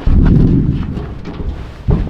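A heavy thud that dies away in a rumble over about a second, then a second sharp knock near the end.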